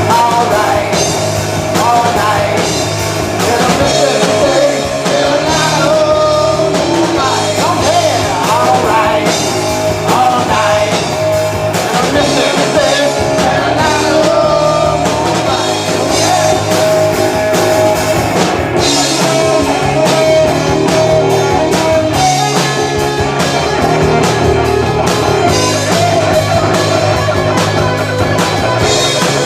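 A rock band playing live, with singing, electric guitar and a drum kit.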